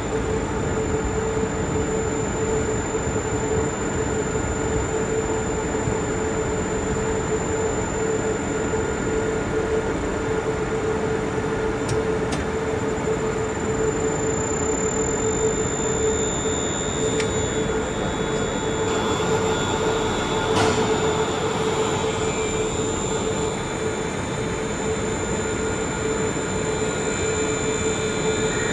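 Electric motor running steadily from a Vacon variable-frequency inverter on the test bench, a constant machine noise with a steady mid-pitched whine.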